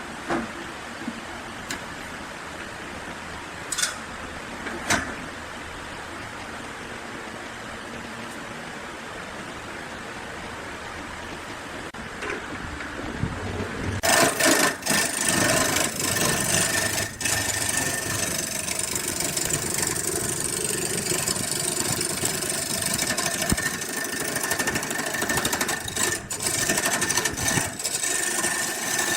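A steady low hiss with a few sharp clicks, then about halfway in a woodworking power tool starts running steadily, with a high whine over its noise.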